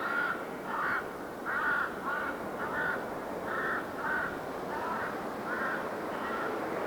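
Crows cawing repeatedly, about ten short calls, over a steady rushing background that swells near the end.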